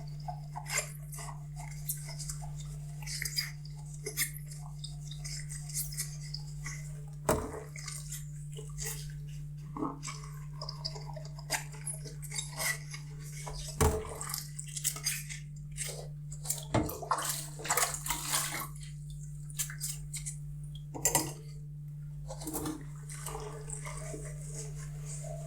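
Dishes being washed by hand: water splashing in short spells, with scattered clinks and a few sharper knocks of dishes against each other or the sink, over a steady low hum.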